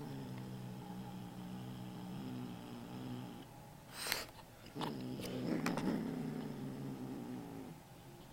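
A kitten growling low and steadily while guarding a stolen banknote, in two long stretches with a short break around four seconds in.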